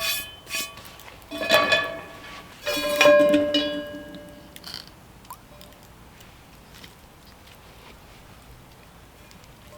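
Background music: a few plucked guitar notes ringing and fading in the first few seconds, then only a faint background.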